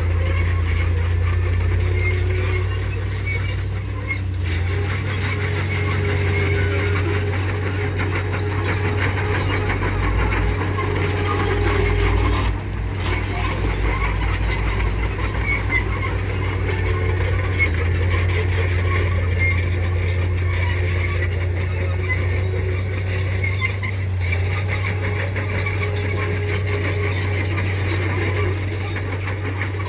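Heavy earthmoving machinery at work: a steady, loud low diesel drone with scattered high-pitched squeaking over it, typical of a bulldozer's steel tracks.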